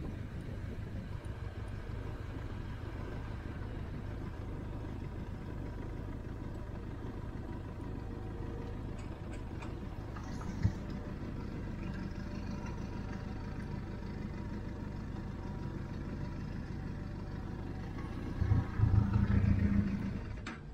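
Motorcycle engine running steadily, a continuous low rumble, with a louder surge of engine noise near the end.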